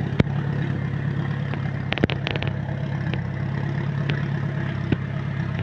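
Off-road 4x4's engine running steadily at a low, even pitch, with a few sharp clanks of metal on the vehicle about two seconds in and again near the end.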